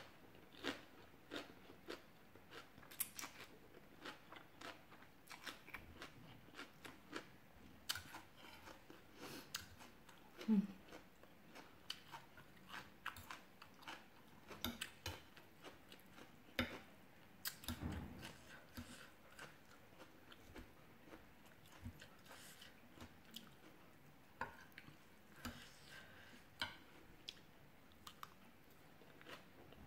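A person chewing mouthfuls of rice noodles and raw vegetables close to the microphone, with irregular small crunches and clicks. One short low hum about ten seconds in is the loudest moment.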